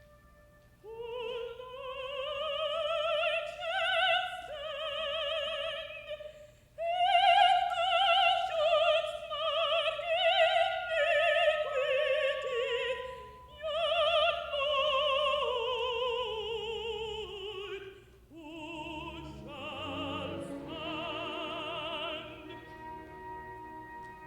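Solo contralto singing long phrases with wide vibrato over a quiet orchestra, starting about a second in, with a falling line near the middle; after that the orchestra's texture fills out beneath the voice.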